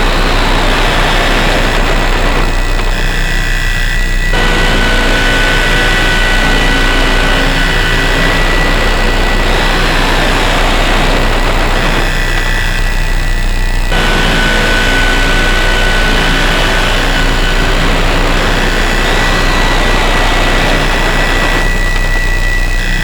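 Harsh noise drone from DIY synthesizers run through distortion pedals: a loud, dense wall of distorted noise with steady high whistling tones over a low hum. A pattern repeats about every ten seconds, with the middle of the sound briefly dropping out each time.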